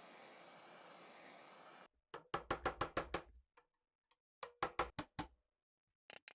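A faint steady hiss stops abruptly about two seconds in. Two quick runs of sharp taps follow, about seven a second, each lasting about a second with a pause between them.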